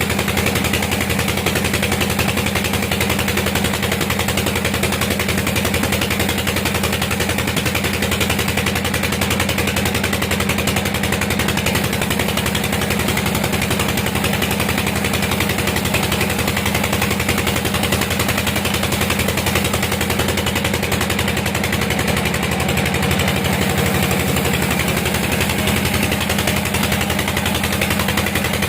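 Sawmill machinery running steadily: a rapid, even pulsing beat with a heavy low hum that holds unchanged throughout.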